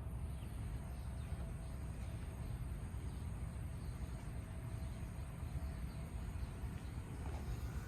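Steady outdoor background: a low rumble, with faint continuous high-pitched insect trilling over it.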